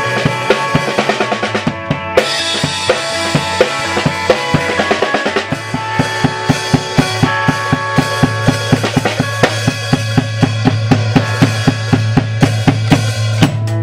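Band music: a drum kit plays a fast, steady beat with kick and snare over a held low note and sustained chords.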